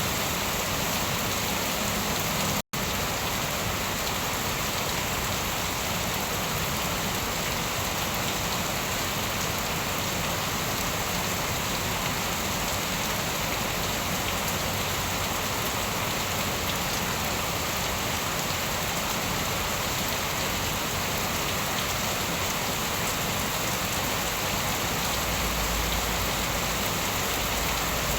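Steady, dense rainfall hissing and pattering on surfaces. The sound cuts out completely for an instant about two and a half seconds in.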